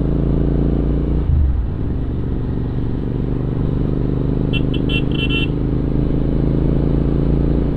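Royal Enfield Interceptor 650's parallel-twin engine running steadily under way, with a brief dip about a second and a half in. About halfway through, a horn gives several quick short toots.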